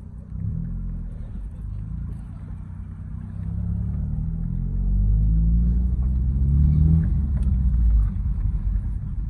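Car engine with a damaged, tape-patched exhaust, accelerating: its note rises in pitch and grows louder from a few seconds in, then drops off sharply about a second before the end.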